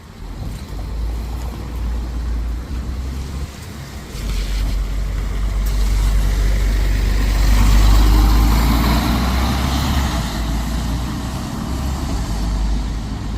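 A bus passing close by: its engine rumble and road noise build to a peak about eight seconds in and then ease off.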